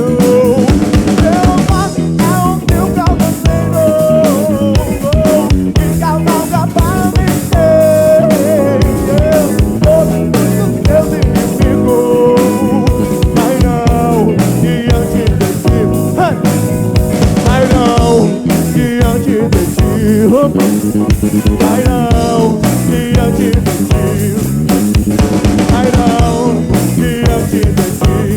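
Live gospel-soul band playing at full volume: drum kit keeping a steady beat under electric guitar and bass, with a melodic line, largely sung, that bends and slides in pitch over the top.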